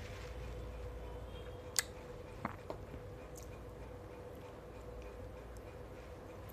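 Faint mouth sounds of someone chewing watermelon, with a few sharp clicks, the loudest about two seconds in, over a steady low hum.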